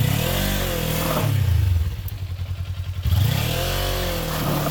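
Kawasaki Ninja 400's parallel-twin engine revving up and dropping back twice, with idle between, as the street bike is worked on a steep dirt trail.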